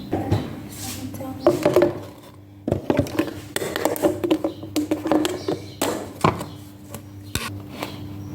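Scattered taps and knocks, like objects being handled, with brief indistinct voices over a steady low hum.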